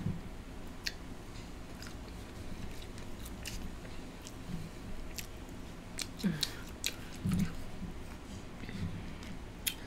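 Close-miked chewing of French fries: irregular wet mouth clicks and smacks throughout, with a couple of brief low hums about six and seven seconds in.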